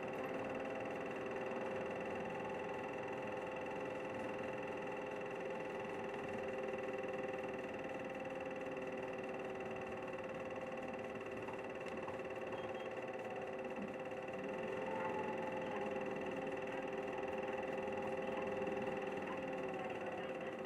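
City route bus engine running steadily at an unchanging pitch, heard from inside the bus.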